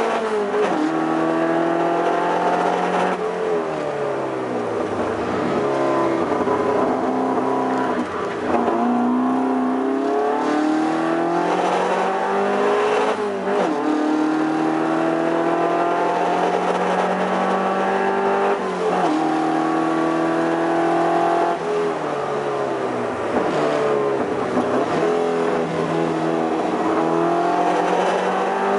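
Toyota Celica TA22 race car's 18R-G twin-cam four-cylinder engine under hard driving, pulling up through the revs for several seconds at a time, then dropping sharply as it shifts or lifts off, over and over.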